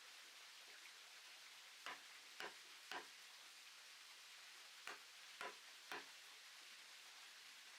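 Woodworking knocks: two groups of three sharp taps, about half a second apart, over a faint steady hiss.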